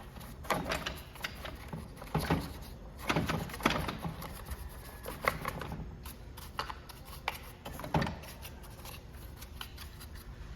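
Irregular clicks and light knocks of hand tools and small metal parts being handled while an Echo string trimmer's clutch is worked on.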